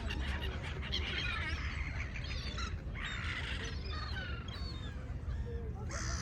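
Seagulls calling repeatedly, many short overlapping cries, over a steady low rumble.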